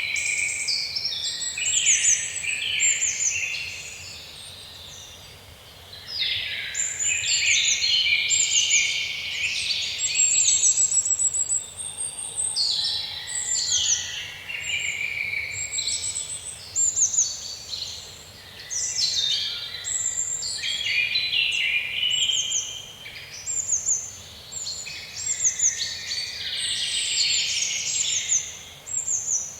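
Several songbirds singing at once, a dense chorus of chirps and trills, with a brief lull a few seconds in.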